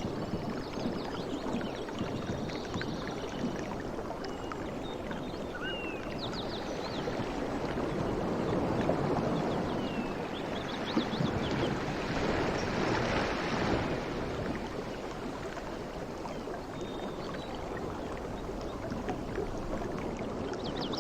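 Sea waves washing in a continuous rush, swelling louder through the middle and then easing back.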